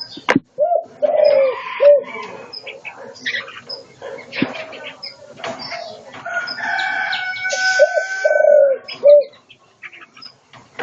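Caged spotted doves cooing in short, arched, repeated notes, over the chirps and whistles of other caged songbirds. There is a sharp click just after the start.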